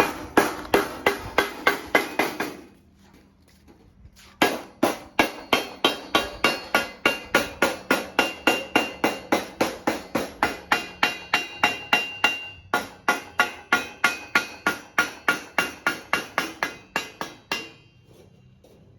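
Rapid, steady hammer blows on sheet-metal ducting, about three or four strikes a second with a ringing metallic tone. They stop for about two seconds near the start, then resume and run until about a second before the end.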